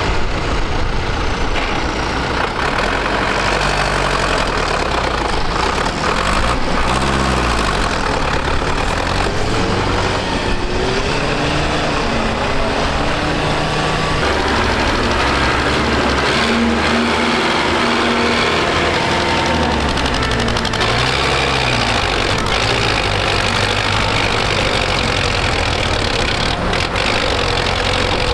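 Tractor diesel engines running under load in deep mud, their pitch rising and falling several times as the throttle is opened and eased off.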